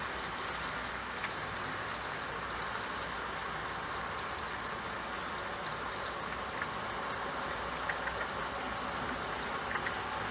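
Steady rain falling, an even hiss with a few sharper drips here and there.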